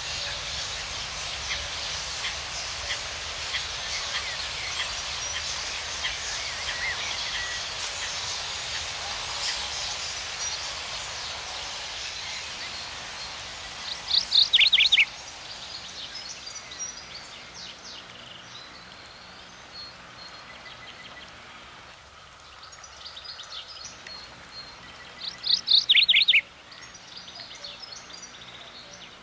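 Birdsong: a busy chorus of small birds chirping, thinning out as it goes, broken twice (about halfway through and again near the end) by a loud call of four or five quick notes that each slide downward.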